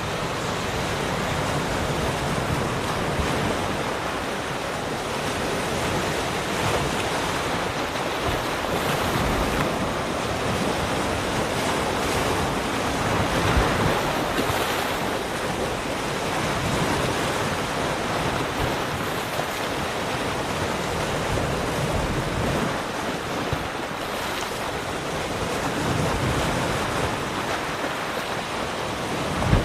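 Ocean waves breaking and washing on a shore in a continuous rush of surf that gently swells and ebbs, with some wind noise on the microphone.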